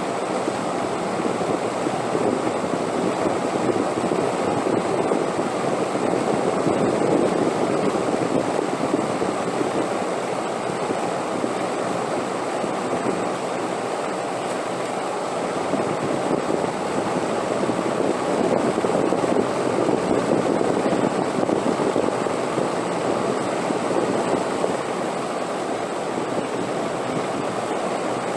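Steady wind noise that swells and eases slowly, twice.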